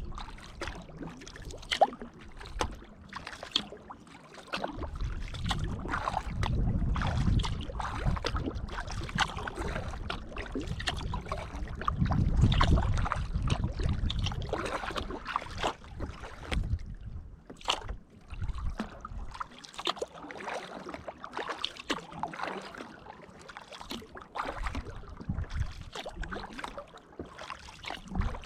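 Kayak paddle dipping and splashing in the water, with irregular drips and small splashes between strokes. A low rumble swells twice, about five seconds in and again about twelve seconds in.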